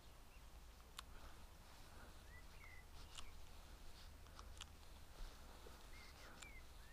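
Near silence outdoors: a faint low rumble, with a few faint bird chirps and scattered sharp ticks.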